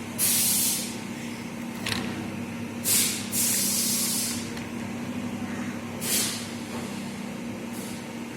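Packaging rustling in hand: four short bursts of hiss, the longest lasting over a second, over a steady low hum.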